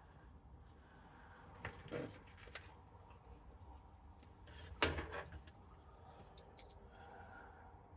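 A few light clicks and knocks from small plastic fan-hatch parts being handled, with the loudest click about five seconds in.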